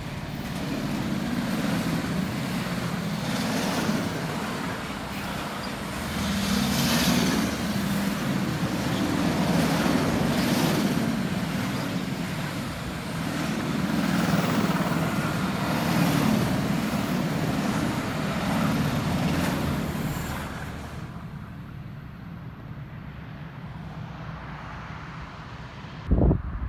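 Freight train of lorries carried on low-floor flat wagons rolling past at close range: a steady rumble and rolling of wheels on rail that swells and eases every few seconds. It dies away about 20 s in, leaving a quiet background, and a short thump comes near the end.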